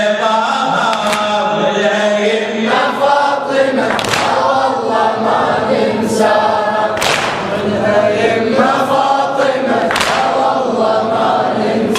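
Men's group chanting a Shia mourning latmiyya, many voices singing together. Sharp slaps sound every second or two, the chest-beating (latm) that keeps time with the chant.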